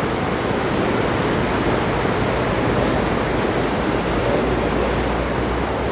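Steady rushing noise, with a low hum joining about four and a half seconds in.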